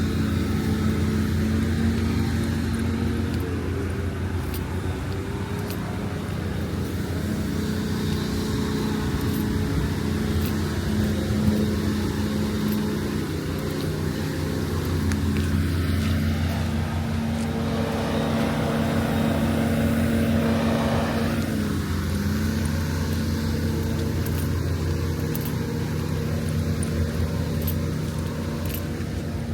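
A motor engine runs with a steady low hum, and a louder swell of engine and tyre noise rises and fades about two-thirds of the way through, like a vehicle going by.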